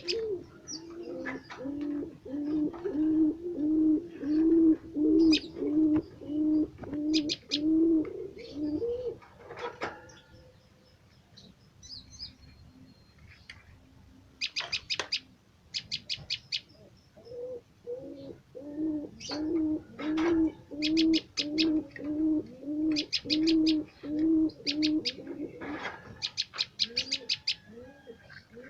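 A dove cooing in two long runs of quick, evenly repeated coos, about one and a half a second, with a pause between them. Over them, prenjak (prinias) give bursts of rapid, high ticking chirps.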